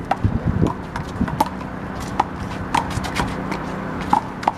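Rubber handball being slapped by hand and bouncing off the wall and court during a rally: a string of sharp smacks, roughly one every half second to second, some with a short ringing ping.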